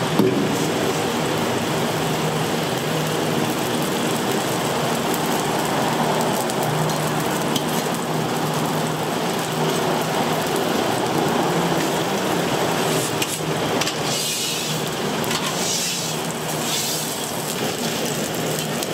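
Steady sizzle of food frying in oil on a griddle, with a low mechanical hum underneath.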